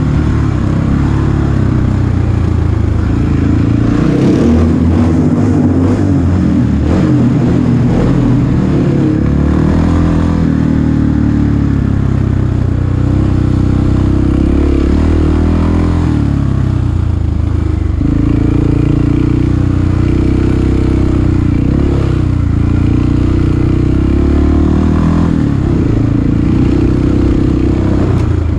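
Dirt bike engines revving over and over inside a tunnel, their pitch rising and falling between blips.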